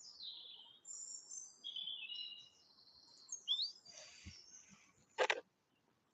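Songbirds singing: a series of faint, high chirps and trilled phrases with quick falling and rising sweeps. A single short click sounds about five seconds in.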